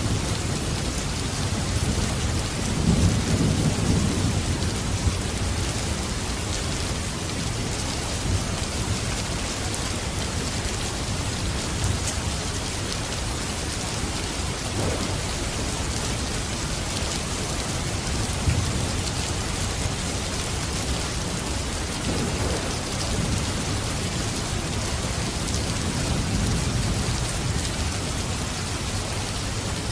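Steady rain with low rumbles of thunder, swelling about three seconds in and again near the end.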